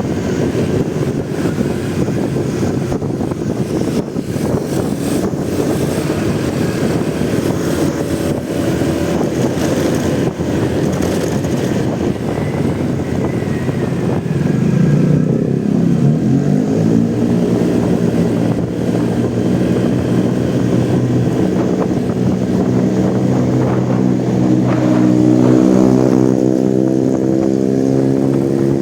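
Motorcycle riding in city traffic, engine and wind noise, then slowing halfway through to a steady engine drone. Near the end the engine pitch rises as it pulls away.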